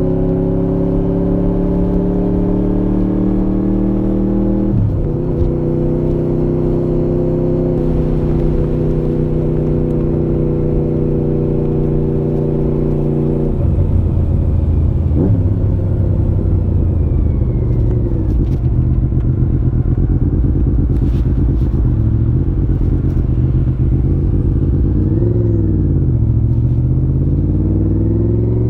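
Honda VFR750 RC36 V4 motorcycle engine running through a modified stock muffler under way, its pitch climbing slowly with a brief dip about five seconds in. Around halfway it drops to a lower, heavier note, then dips and climbs again near the end.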